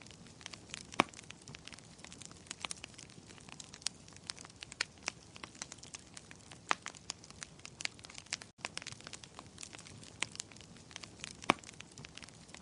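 Wood fire crackling in a fireplace: a steady low hiss with irregular sharp pops and snaps, two of them louder, about a second in and near the end. A split-second dropout about two-thirds of the way through.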